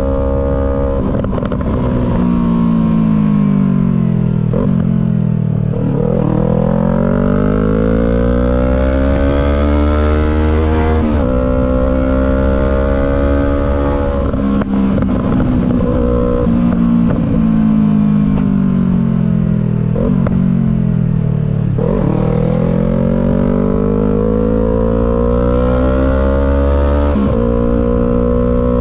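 Yamaha MT-03's parallel-twin engine through a Disarsz full aftermarket exhaust, under way: the revs sink and then climb again, twice over, with sudden drops in pitch at the gear changes.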